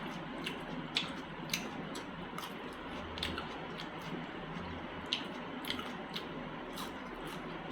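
Close-miked chewing of meat in masala gravy: wet, squishy mouth sounds with sharp smacking clicks every second or so.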